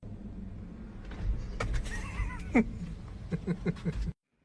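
An animal's short pitched calls over steady background noise: one falling cry, then a quick run of four or five brief calls near the end, with a few clicks between them.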